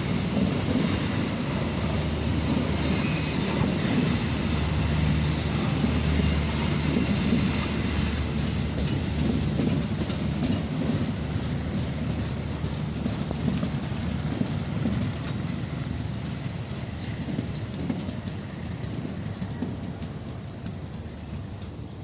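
A passenger train of coaches passing close by, its wheels clattering over the rail joints in a steady clickety-clack over a rolling rumble. The sound fades off toward the end as the last coaches go by.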